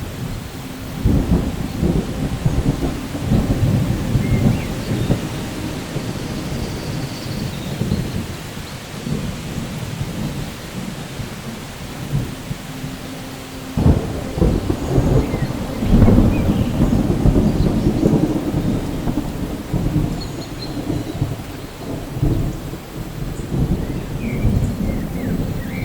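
Thunderstorm: steady rain with rolling thunder, the rumble swelling about a second in and again with a sudden sharper crack about fourteen seconds in.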